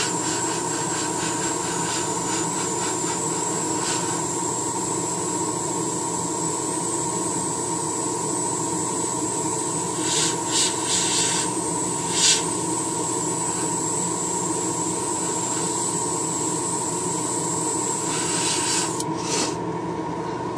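Airbrush hissing steadily as it sprays paint, over a steady hum, with a few short louder spurts of spray about ten to twelve seconds in; the hiss stops shortly before the end.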